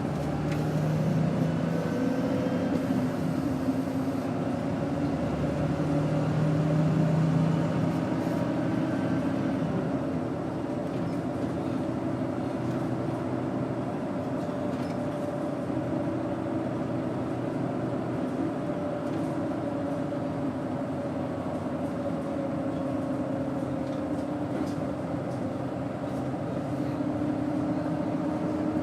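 Doosan GE12Ti turbocharged straight-six natural-gas engine of a Daewoo BS110CN bus running under way, louder for the first several seconds, then settling to a steadier hum about ten seconds in, its pitch slowly rising again near the end.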